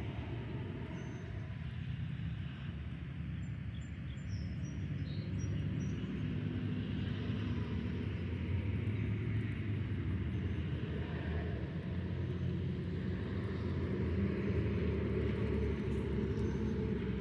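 Golf cart running, a steady low rumble that grows a little louder about six seconds in.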